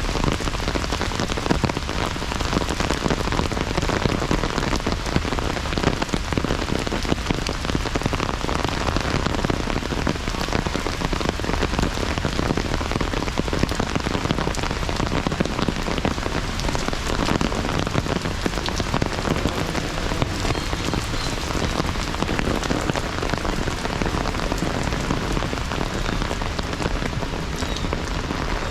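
Heavy rain falling steadily: a dense, even patter of countless raindrops.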